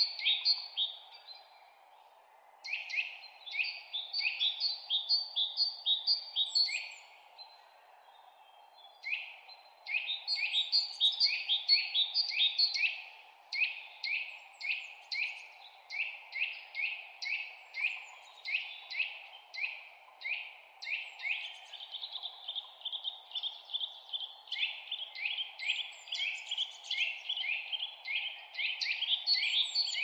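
Forest birdsong: fast runs of short, high, downward-sweeping chirps, about three to four a second. It breaks off briefly about two seconds in and again about eight seconds in, then carries on without a break. A steady background noise runs underneath.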